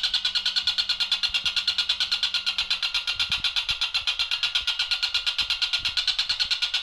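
Tengkek buto kingfisher calling in a fast, even run of sharp, high repeated notes, about eight or nine a second without a break.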